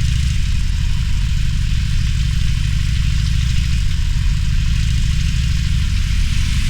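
Harley-Davidson Roadster's air-cooled V-twin engine running steadily, its low exhaust rumble under a steady hiss of wind and road noise.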